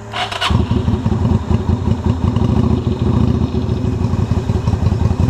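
Yamaha XV250 Virago's V-twin engine, fed through jumper leads because its battery is flat, starts up about half a second in after a brief whirr and runs loud with a rapid, uneven beat.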